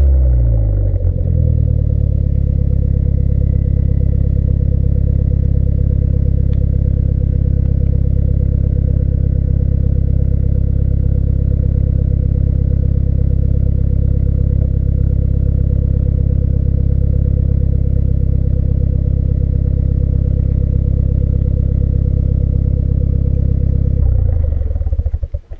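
Renault Clio 4 RS with a valved exhaust: the revs fall back to idle about a second in, then the engine idles steadily until it is switched off near the end.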